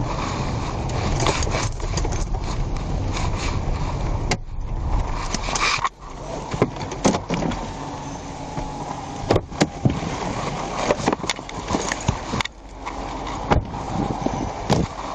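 Vehicle road noise, a steady rumble, for about the first six seconds. It then drops suddenly, and the rest holds a quieter background with a scatter of sharp clicks and knocks.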